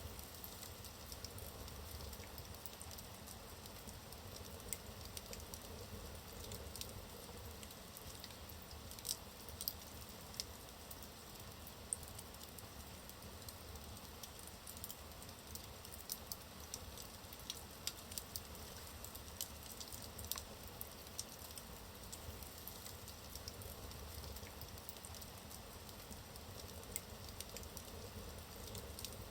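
Logs burning in a fireplace, crackling faintly with frequent small sharp pops and snaps over a steady low hiss.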